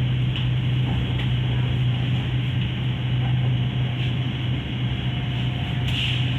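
SRT Red Line electric commuter train running, a steady low hum over an even rumbling noise.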